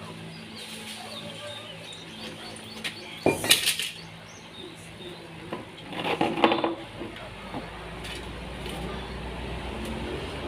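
Two bursts of clattering knocks and rattles, one about three seconds in and one about six seconds in, as hard objects are handled and set down during DIY carpentry work. A faint low hum runs underneath.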